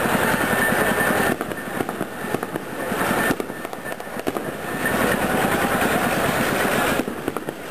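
Fireworks going off in a rapid, continuous crackle of many small bangs, easing for a moment twice before picking up again.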